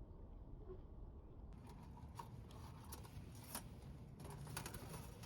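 Faint handling noise: a low rumble, then from about a second and a half in, light rustling and scattered small clicks as gear is moved about.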